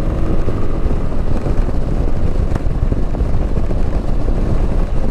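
Keeway Superlight 125 motorcycle running at road speed as it picks up pace, its engine heard under heavy wind buffeting on the helmet-mounted microphone.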